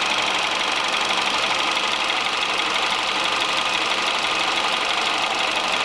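Citroën C3's 1.5-litre four-cylinder engine idling steadily at operating temperature, heard from the open engine bay.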